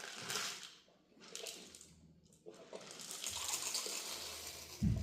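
Whole peppercorns being poured into a wooden pepper mill: a couple of short pours, then a longer steady pour from about halfway.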